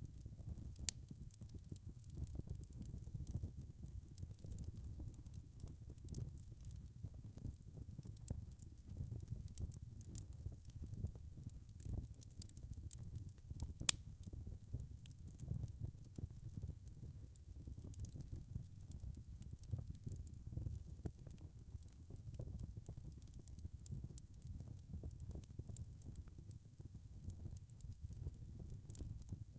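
Wood fire crackling: a low steady rumble of flames with frequent small crackles and pops, one sharper pop about 14 seconds in.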